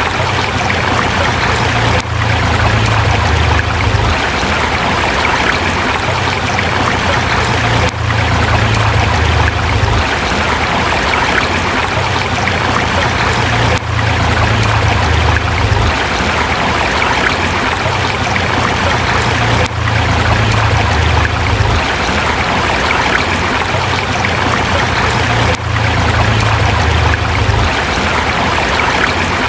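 River water rushing steadily over rocks, a dense, even flow of sound with a slight dip in level about every six seconds.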